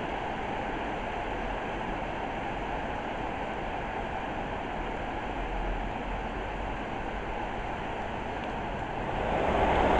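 Steady rain falling, a continuous hiss of a tropical afternoon downpour; it grows louder about nine seconds in as the rain comes down harder.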